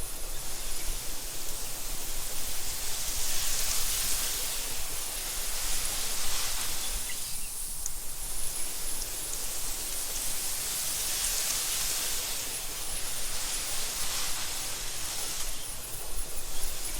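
Wind blowing through tall meadow grass, a steady rushing hiss that swells in gusts and eases off, with a low rumble underneath.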